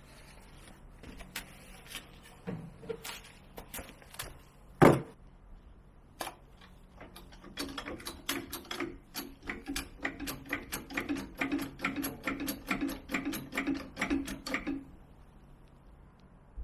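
Metal clicks and knocks from hand tools at work on a kei truck's engine: a few scattered clicks, one loud knock about five seconds in, then a steady run of sharp clicks about three a second for some seven seconds, which stops abruptly.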